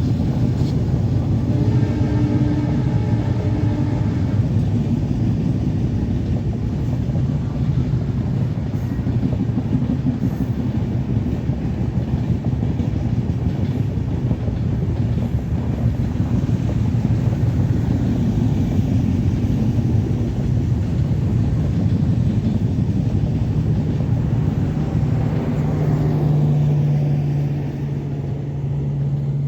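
Passenger train running past, a steady rumble of wheels on the rails that eases off near the end.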